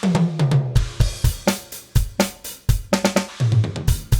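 DrumGizmo virtual acoustic drum kit playing a groove of kick, snare, hi-hat and cymbals, with a tom fill falling in pitch at the start and another near the end. It is heard with the room-mic tracks mixed in, giving the kit its simulated room bleed.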